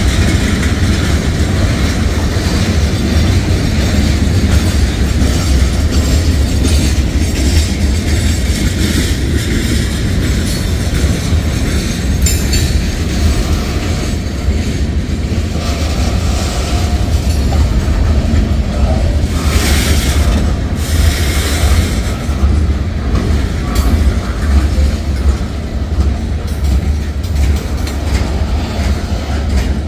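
Cars of a freight train rolling past at close range: a steady, loud, low rumble of steel wheels on rail, with wheels clicking over the rail joints. A brief hissier stretch of wheel noise comes about twenty seconds in.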